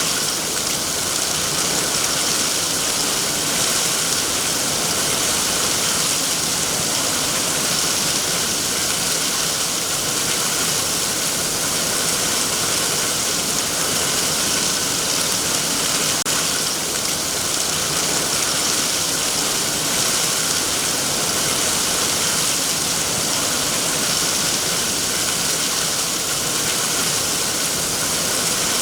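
Heavy rain falling steadily on trees, a dense, even hiss of drops on leaves that does not let up.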